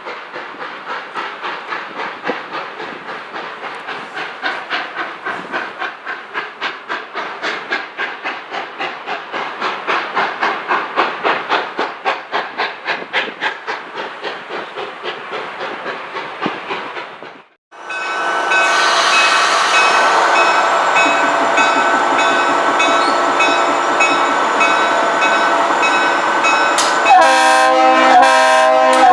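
A train running with a rhythmic beat of about three a second. After an abrupt break, a multi-tone train horn sounds a loud, steady chord for the last eleven seconds, its tones shifting about two seconds before the end.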